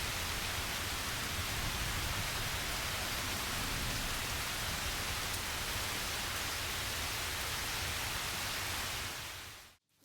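Steady downpour of rain, a storm soundtrack, fading out about nine seconds in and cutting to silence.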